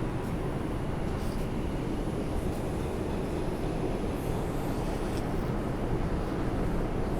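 Steady rumble and hiss inside an R142 subway car, heaviest in the low end, with a few faint clicks and a faint constant high whine.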